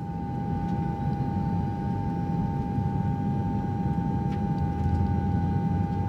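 Steady mechanical hum: a constant whine held at one pitch over a low, even rumble, like an engine or motor running at unchanging speed.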